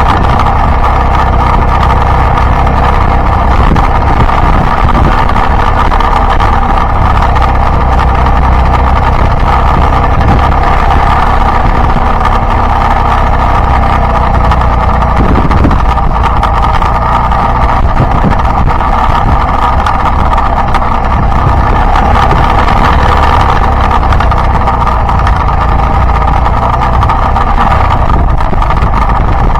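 Yamaha Byson single-cylinder motorcycle engine running steadily while riding, mixed with wind and road noise on the camera microphone, with a brief change in the engine note about halfway through.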